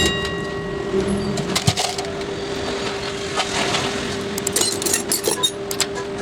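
Scattered clicks and crackles of wire and small parts being handled, over a steady hum.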